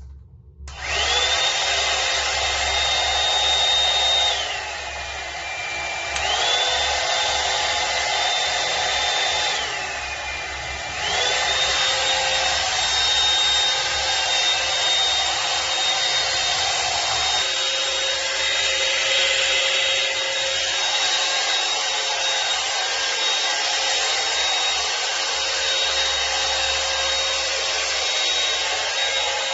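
Hot air dryer brush switching on about a second in, its small fan motor running with a high whine over rushing air. Twice the motor drops to a lower speed for a second or two, its whine falling in pitch, and then climbs back to full speed.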